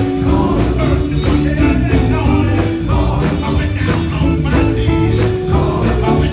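Live gospel band music with a strong bass line and a steady beat.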